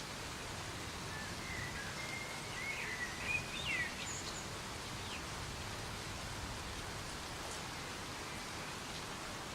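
Soft, steady rain falling in a forest, with a bird giving a short run of chirps and whistles about two to four seconds in.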